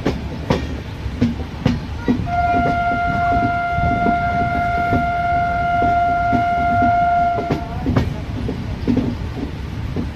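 Express train running along the track, wheels clattering and clicking over the rails, heard from an open coach door. About two seconds in, the locomotive's horn sounds one long, steady blast of about five seconds.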